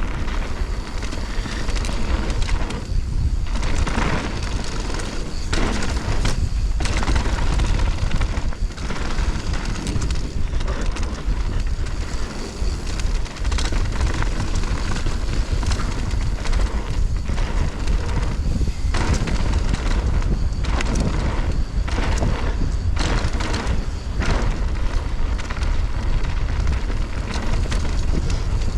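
Mountain bike descending a rough dirt trail at speed: a steady rush of wind over the microphone with tyre and chain rattle, and repeated sharp knocks as the bike hits bumps and lands.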